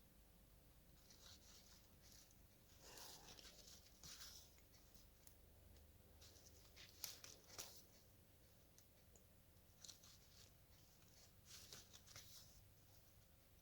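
Near silence with faint, soft swishes every second or two: embroidery floss being drawn through cross-stitch fabric.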